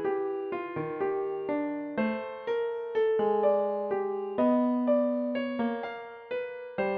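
Gentle keyboard music: a piano or electric piano playing slow, evenly spaced notes and chords, each struck and left to fade.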